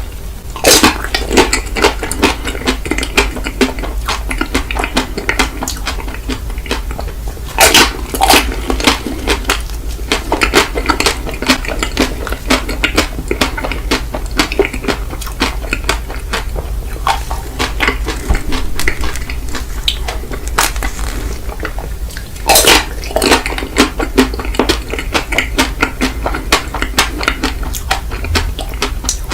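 Close-miked ASMR eating of ice cream: a dense run of sharp clicks and crunching, with a few louder snaps about a second in, near the middle and again later, over a steady low hum.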